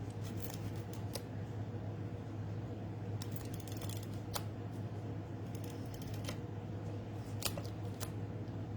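Scattered light clicks and taps of card-making supplies being handled on a work table, a few strokes spread out with gaps between, over a steady low hum.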